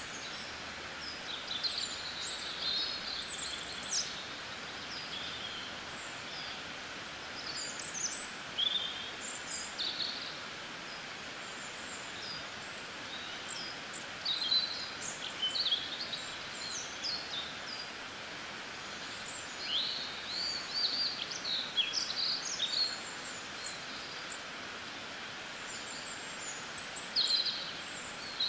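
Outdoor ambience: many small birds chirping and calling in short, scattered bursts over a steady background hiss.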